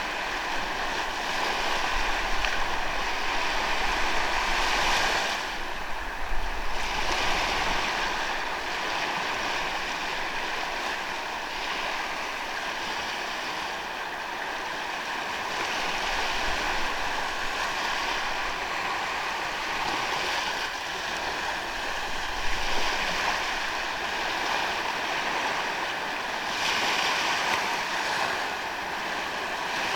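Ocean waves washing onto a sandy beach, swelling and easing every few seconds, with a low rumble of wind on the microphone now and then.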